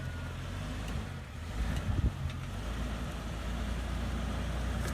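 Motor vehicle running with a steady low rumble, with a few short knocks about two seconds in.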